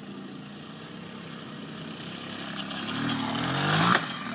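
Small motorbike engine running, then revving with its pitch rising and growing louder over the last second and a half, cutting off suddenly near the end.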